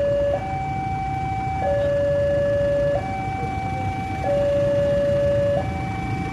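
A two-tone warning siren alternating between a higher and a lower note, each held about a second and a quarter, over a low rumble.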